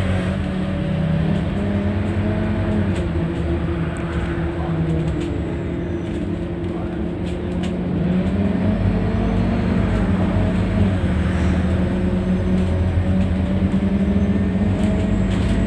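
Scania N230UD double-decker bus's diesel engine running as the bus drives, a steady drone that gets louder about eight seconds in as it pulls harder.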